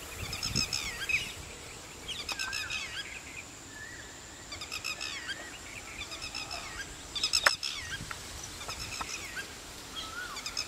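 Birds calling: clusters of short, rapid, pitched notes repeating about once a second. A single sharp click sounds about seven and a half seconds in.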